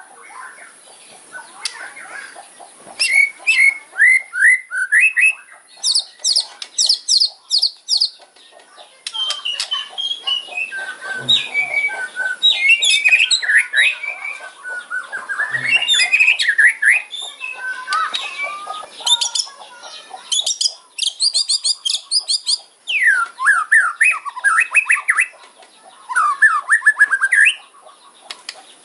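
White-rumped shama (murai batu) singing hard: phrases of quick rattling notes repeated several times a second, mixed with swooping whistled notes, broken by short pauses.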